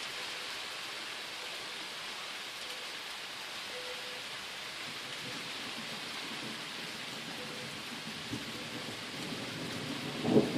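Steady rain falling in a thunderstorm. A low rumble of thunder builds over the last couple of seconds.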